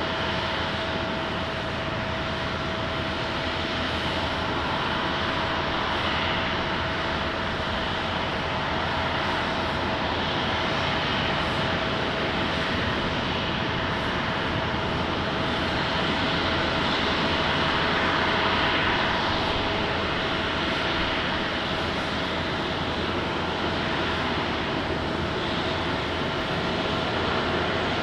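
Airliner jet engines running, a steady rushing noise with a constant tone through it, growing a little louder about two-thirds of the way in.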